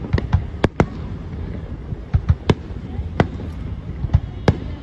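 Aerial fireworks shells bursting: about ten sharp bangs at uneven intervals, several close together in the first second, over a steady low rumble.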